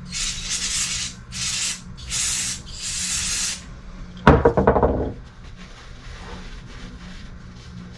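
Aerosol spray can hissing in about five short bursts as transmission parts are sprayed off to clean them. A little past halfway comes a single loud clank with a brief ring.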